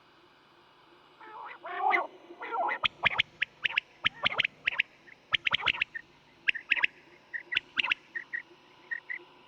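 Quail calling: after a moment's quiet come a few lower, rasping calls, then a quick run of short, sharp, high notes in groups of two and three that thins out near the end.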